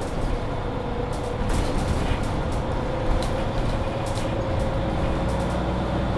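Mercedes-Benz Citaro C2 hybrid city bus driving, heard on board: low drivetrain rumble under a steady whine that rises slowly in pitch as the bus gathers speed, with a second lower whine joining near the end. Short interior rattles and clicks come through now and then.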